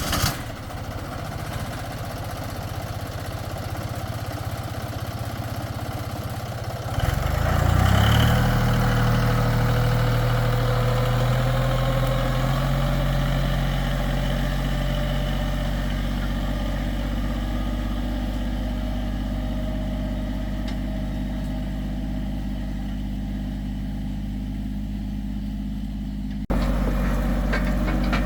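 Tractor engine running steadily, rising in pitch and loudness about seven seconds in and then holding at the higher speed; the sound changes abruptly near the end.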